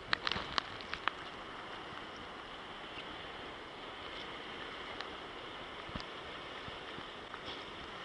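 Small waves lapping and sloshing around a kayak, with a cluster of sharp ticks and splashes in the first second, then a steady soft wash of water with an occasional faint tick.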